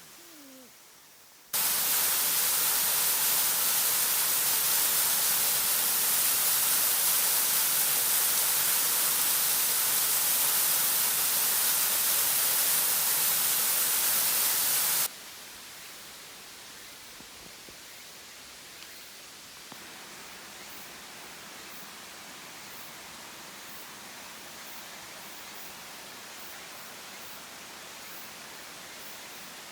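Steady, even rush of a waterfall's falling water, loud from about a second and a half in, then cutting suddenly to a fainter, steady rush about halfway through.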